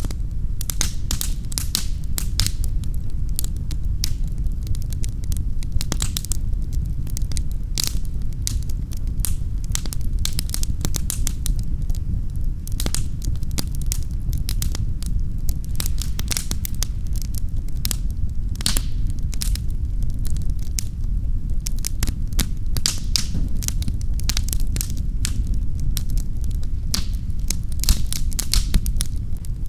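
Wood fire burning in a fireplace, with a steady low rumble of flames under dense, irregular sharp crackles and pops.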